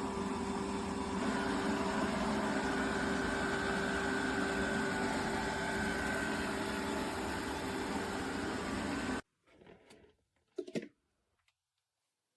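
Robot vacuum running, a steady motor and brush whir with a constant hum. It cuts off abruptly about nine seconds in, followed by a couple of faint knocks.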